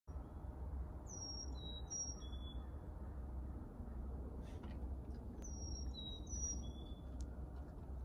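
A songbird singing a short song of four clear whistled notes, high and low in turn, twice, over a steady low rumble.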